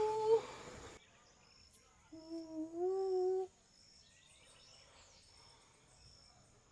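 A woman's voice humming a held note that ends just after the start; after a pause, a second held hummed note, rising slightly in pitch, lasts about a second and a half.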